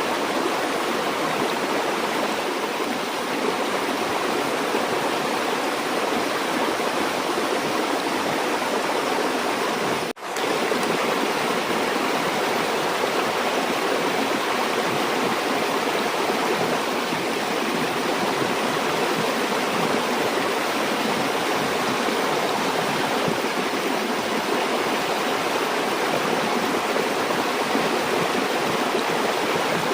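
Steady rushing of a flowing river or stream, with a split-second drop-out about ten seconds in.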